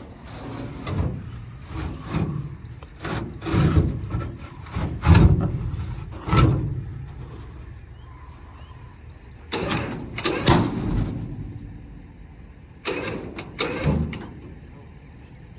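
A run of loud, irregular metal clunks and rattles from an old truck being dragged along, its tyres sliding, over a low rumble of vehicle noise.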